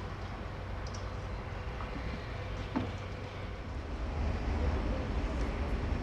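Railway station background noise with a low rumble that grows louder about four seconds in, and a single short knock near the middle.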